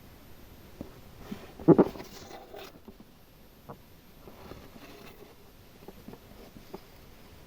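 Small objects being handled on a hard surface: scattered light clicks and soft rustling, with two sharp clacks close together about two seconds in.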